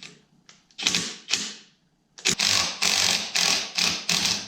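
Impact wrench hammering in short bursts while working the magneto flywheel off a snowmobile engine: two brief pulls about a second in, then a longer run of rapid rattling from halfway through.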